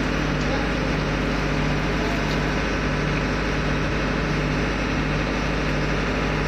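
Steady drone of running ship's machinery, an even mechanical noise with a constant low hum.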